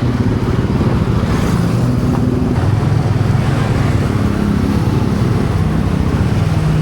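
Yamaha PG1's single-cylinder four-stroke engine running under way, its pitch shifting a little with the throttle, with wind and road noise.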